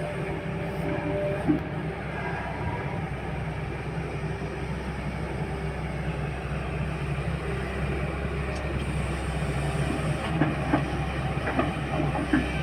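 Heavy loading machine's diesel engine running steadily with a low rumble, with a few sharp metallic knocks in the last few seconds.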